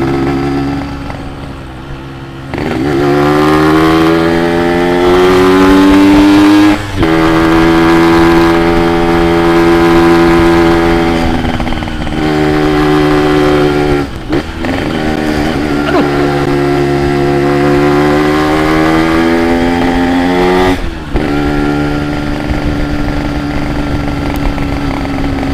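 Yamaha RX-King's two-stroke single-cylinder engine pulled hard while riding, its pitch climbing in each gear and dropping briefly at several gear changes.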